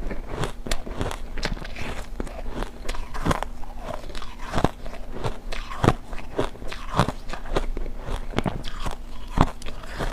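Refrozen ice chunks dusted with matcha powder being bitten and chewed: a dense, irregular run of sharp cracks and crunches, with two louder snaps, one about halfway and one near the end.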